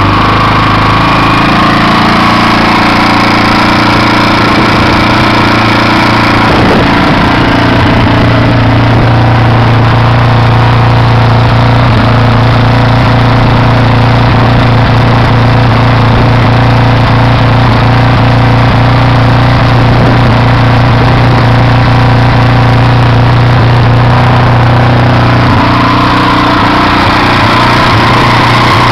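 Freshly rebuilt KTM motorcycle engine running loud and steady at idle just after starting. Its note shifts slightly about six seconds in and again near the end.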